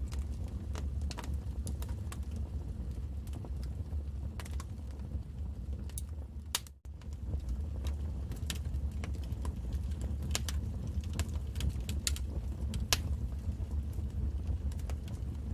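Wood fire crackling, with irregular sharp pops over a low steady rumble. The sound cuts out for an instant about seven seconds in.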